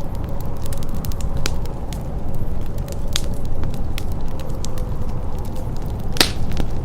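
Wood fire crackling in a fireplace: scattered sharp pops and snaps, one or two a second, over a low steady rumble, with one louder pop near the end.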